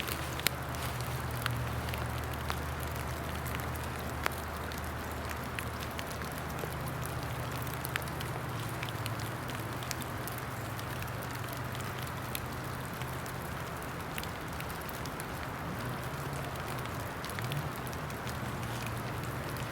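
Steady rain with scattered, irregular drips and ticks.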